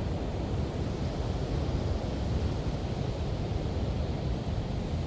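Ocean surf at the beach: a steady, unbroken wash of noise with a heavy low rumble.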